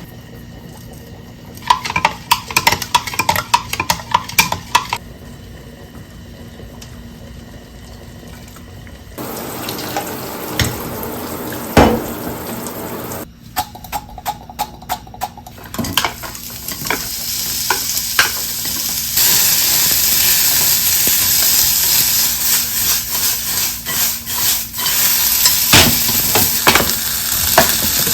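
Food frying in a pan, with a utensil clicking and scraping against it. A quick run of taps comes early, then a sizzle builds and grows loud through the second half, with taps over it.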